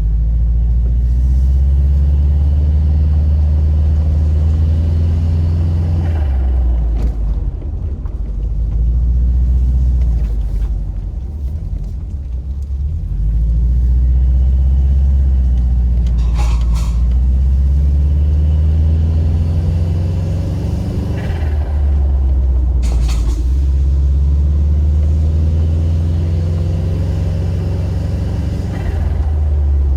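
Subaru Impreza WRX's turbocharged flat-four engine driving, a loud low drone that eases off and picks up again about four times as the driver lifts and shifts. Two short sharp noises stand out, about halfway through and again a few seconds later.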